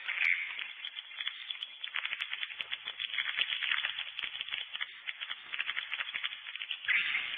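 Swiftlets calling: a dense, continuous chatter of rapid clicking trills and chirps, with no treble.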